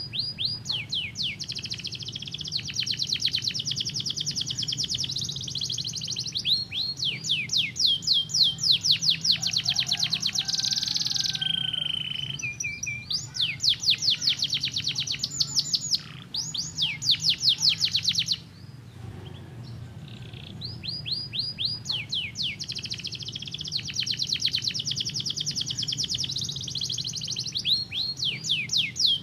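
Domestic canary singing long, fast trills of rapidly repeated downward-sweeping notes, with a short held note in the middle. The song breaks off for a second or two about two-thirds of the way through, then starts again.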